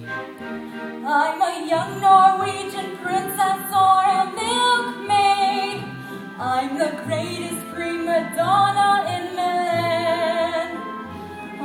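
A woman singing a slow show tune, holding long notes with vibrato, over instrumental accompaniment with a low bass note about once a second.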